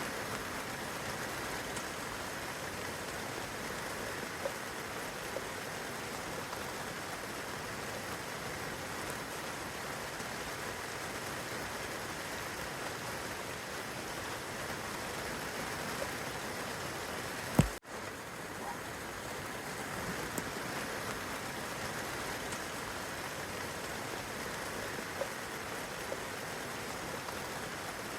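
Steady rain falling on a young fruit tree and the grass beneath it, an even hiss dotted with small drip ticks. About two-thirds of the way through there is a single sharp click with a split-second drop-out, the loudest moment.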